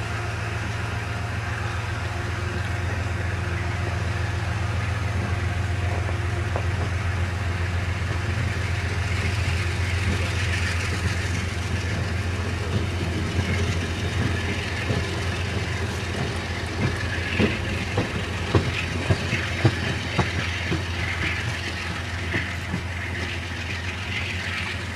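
Amtrak passenger train of Amfleet coaches pulling away from the station: a steady low drone with the rumble of wheels on the rails. Past the middle comes a run of sharp clacks as the wheels cross rail joints.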